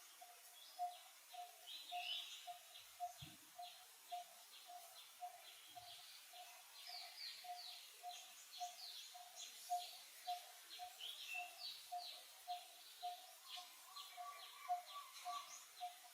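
Faint birdsong: one bird repeats a single low note evenly, about twice a second, over rapid high chirping from other birds. A second, slightly higher repeated note joins near the end.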